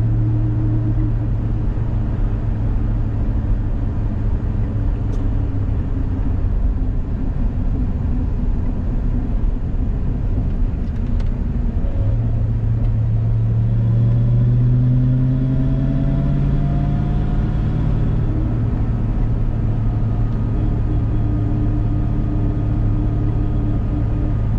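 Ford Mustang running on the road, engine hum and road noise together. About twelve seconds in the engine note rises as the car speeds up, then settles into a steady cruise.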